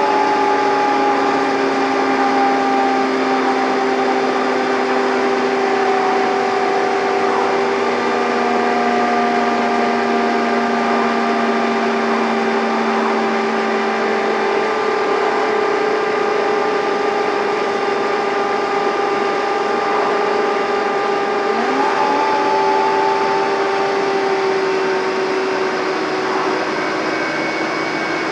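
Scania N230UD double-decker bus engine labouring under load with its whining 'Hoover thrash', a steady loud drone and whine, with a brief upward sweep in pitch about three-quarters of the way through.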